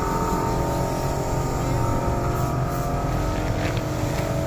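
Diesel engine of a UD Trucks Nissan Quester CWE 280 truck idling steadily.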